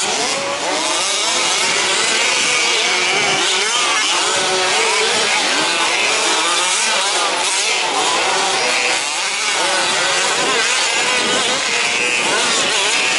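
Several 1/5-scale two-stroke petrol RC truck engines running at once, their overlapping pitches rising and falling as they rev up and back off around the track.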